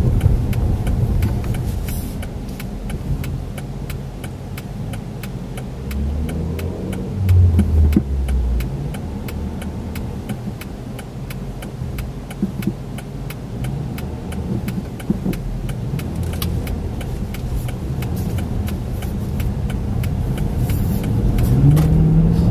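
Car cabin interior while driving: a low engine and road rumble that swells for a moment near the middle as the car pulls away, under the turn-signal relay ticking at about three clicks a second.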